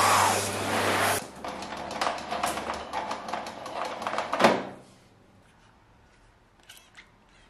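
A small motorised household appliance running with a steady whir, switched off about a second in, followed by a run of light clicks and handling rustles and a single sharper clack near the end.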